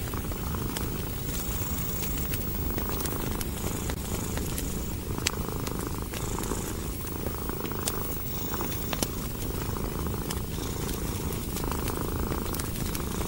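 Domestic cat purring steadily, a low continuous rumble that swells and eases with each breath, over a crackling wood fire whose sharp pops and snaps come at irregular intervals.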